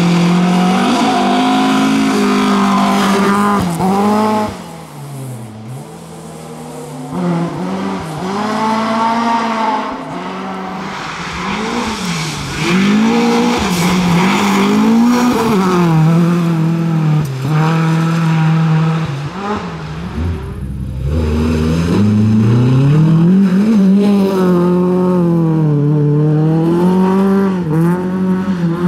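Volvo 740 rally car's tuned engine revving hard at full throttle, its pitch climbing and dropping again and again through gear changes and lifts. There are brief lift-offs where it falls away before pulling up again.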